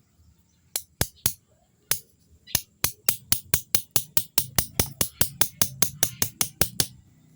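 A run of sharp clicks: a few scattered ones at first, then a steady run at about four clicks a second that stops shortly before the end.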